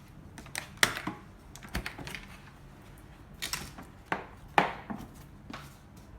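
Irregular sharp clicks and knocks of equipment being handled while the pipe inspection camera system is set up, with the two loudest near one second in and about four and a half seconds in.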